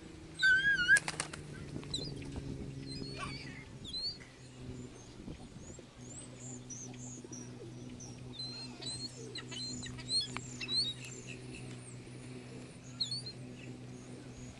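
Birds at a feeding spot: many short chirps throughout, with a louder warbling call and a flurry of wing flaps about a second in. A steady low hum runs underneath.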